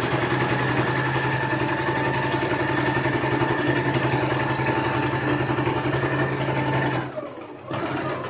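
Electric sewing machine running steadily at speed, stitching a seam. It stops about seven seconds in, then runs again briefly near the end.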